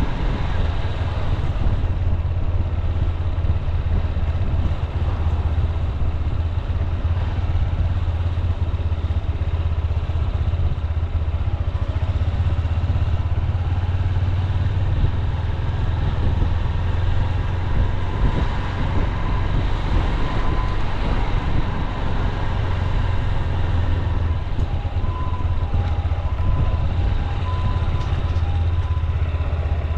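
Honda CB200X single-cylinder motorcycle engine running steadily at an even, low speed, a deep continuous rumble with no revving.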